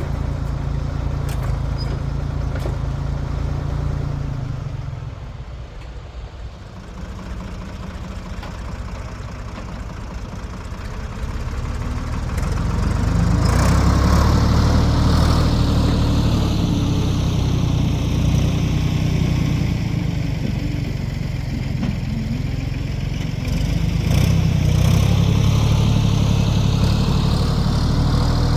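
Diesel engine of a 1973 Ford 4500 industrial backhoe running while digging out stumps. It drops lower about five seconds in, then runs louder from about thirteen seconds and steps up again near the end.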